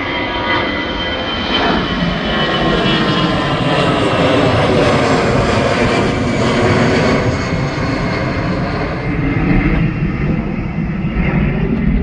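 Passenger airliner's engines running loud and close, a steady rush with a high whine that slides slowly down in pitch as the aircraft passes. The noise swells to its loudest in the middle.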